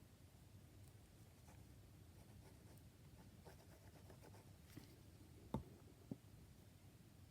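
Near silence with faint rustling of paper and fabric being handled, and two light taps a little over half a second apart near the end.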